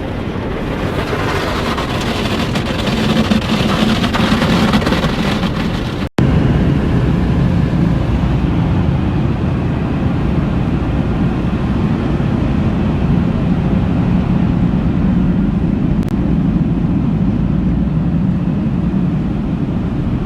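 Automatic car wash machinery running around the truck, heard from inside the cab: a steady rush of spray and equipment over a low rumble. The sound cuts out for an instant about six seconds in, then the rumble carries on evenly.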